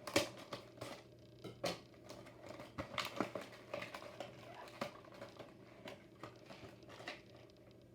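Crinkling and clicking of plastic and cardboard packaging being handled and opened around a small diecast toy car, in irregular sharp snaps with a few louder ones.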